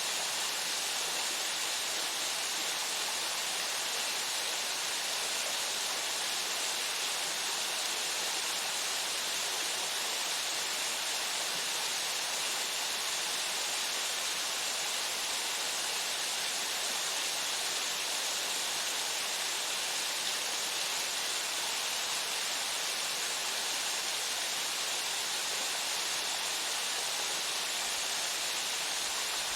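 Waterfall: water falling and splashing into its pool in a steady, unbroken hiss.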